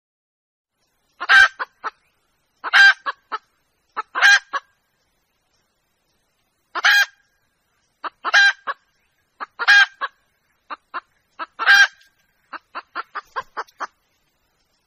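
Young red junglefowl hen calling to a rooster: seven loud bouts of clucking calls, each a strong note followed by two or three shorter ones, about every one and a half seconds. Near the end comes a quick run of seven or so short clucks.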